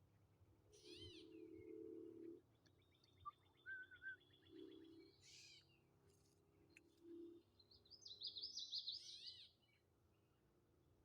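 Faint birdsong: a few short chirps and two rapid trills, the last and loudest about eight seconds in.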